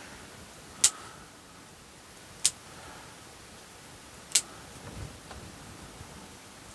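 Pruning shears snipping through small conifer branches, three sharp clips about two seconds apart.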